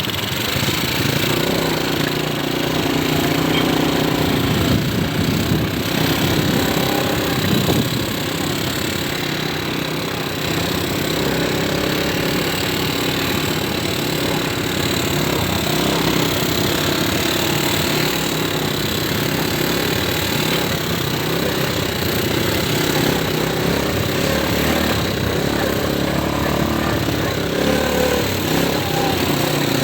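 ATV engine running steadily during a ride, with a continuous low rattling drone.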